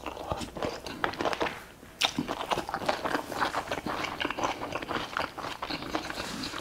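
Close-miked chewing and biting of food: a quick, irregular run of clicks and crunches, with a short lull and then a fresh bite about two seconds in.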